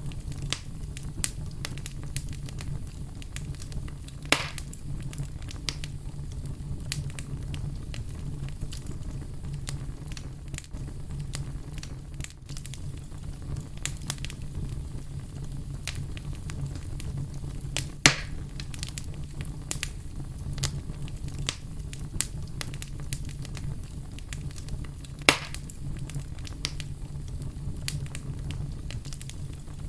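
Wood fire burning with a steady low rumble and irregular crackles, a few sharper pops standing out, the loudest about 18 seconds in.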